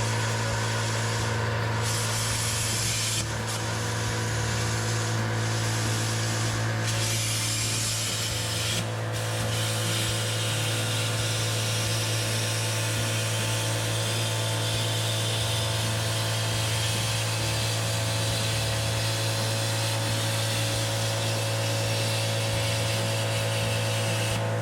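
BestArc plasma cutter making a cut: a steady electrical hum under the hiss of the arc and air jet. The hiss drops out briefly several times in the first nine seconds, then runs steadily and cuts off near the end while the hum carries on.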